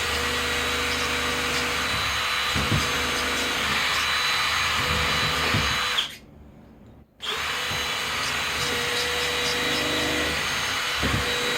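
Power drill running with a steady whine for about six seconds, stopping for about a second, then running again.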